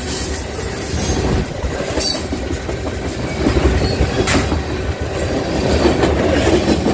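Freight train tank cars and a covered hopper rolling past: a steady rumble of steel wheels on the rails, with a couple of sharp clicks.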